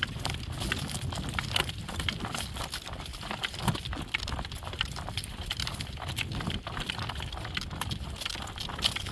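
Hoofbeats of driven horses clip-clopping, many quick irregular hoof strikes over a steady low rumble.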